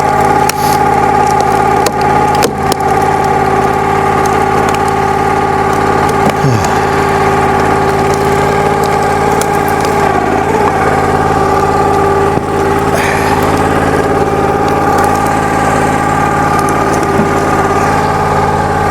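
Log splitter's small gas engine running steadily, with a few brief knocks near the start.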